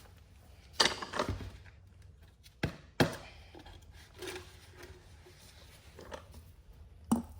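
A few sharp knocks and clunks from handling the new oil filter while it is readied for pre-filling: a clatter about a second in, two knocks around three seconds in, and one more near the end.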